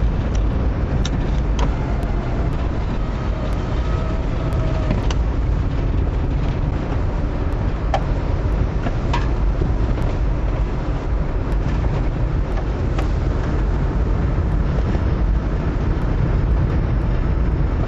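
Subaru being driven along a snow-covered road: a steady low rumble of engine and tyres, with scattered small ticks.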